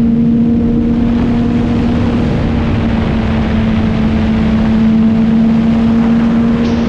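Motorcycle engine running at a steady cruising speed, holding one even note, with wind rumbling over the microphone.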